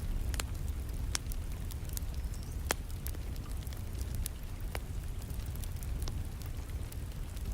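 Wood fire crackling in a fireplace: a few sharp pops of burning logs over a steady low rumble, with the even hiss of rain behind it.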